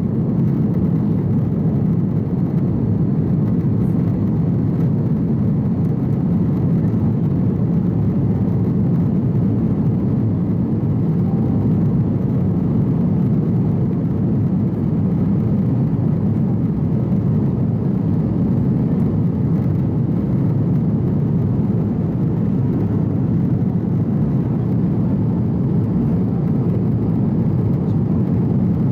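Steady cabin noise inside an Airbus A330 airliner in its climb after takeoff: an even, low drone of jet engines and rushing air that does not change.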